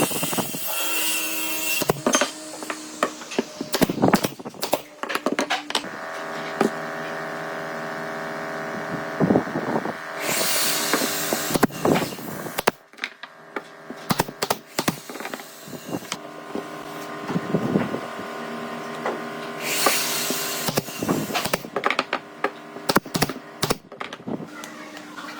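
Woodworking sounds: an electric tool's motor running steadily, with two bursts of cutting or sanding noise, one about ten seconds in and one near the end. Sharp knocks and taps of wood on wood come throughout.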